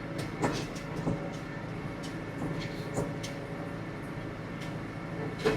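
Farm tractor engine running steadily while towing hay equipment through a field, with a few sharp knocks and rattles from the machinery.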